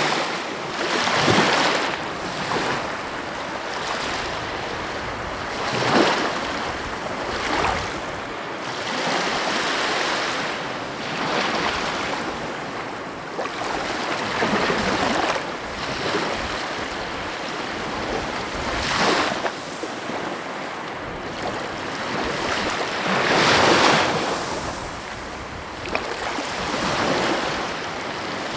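Sea waves breaking and washing on the shore: a continuous rush of surf, with louder breakers swelling up every few seconds.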